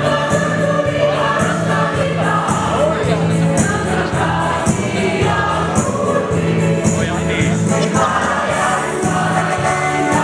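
Mixed choir of men and women singing a march in unison over an accompaniment with a steady beat.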